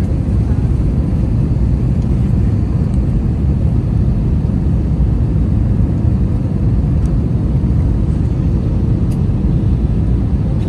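Steady low rumble inside the passenger cabin of an Airbus A321, the noise of its IAE V2500 engines and the airflow, with a few faint ticks.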